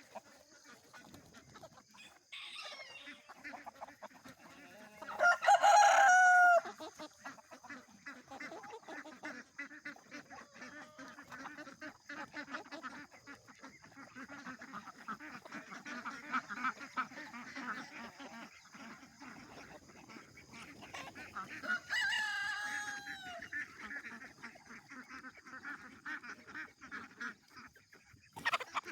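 Rooster crowing twice, loudest about five seconds in and again near twenty-two seconds, each crow trailing off in a falling note, over the continuous clucking of a chicken flock.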